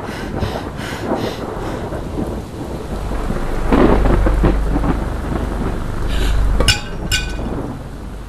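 Steady rain with a deep rumble of thunder swelling a few seconds in, then two sharp, ringing hits about half a second apart near the end.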